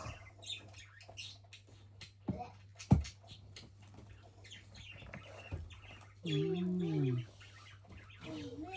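Budgerigar chick giving short, high chirps and squeaks while held in the hand, with small rustling clicks. There is a sharp knock about three seconds in, and a person's low, drawn-out cooing voice lasting about a second past the middle.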